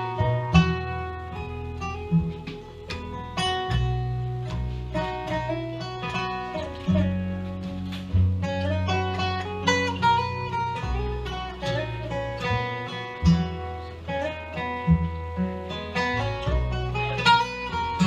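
Acoustic folk band playing an instrumental break: a picked acoustic guitar lead over a steady bass line, with no singing.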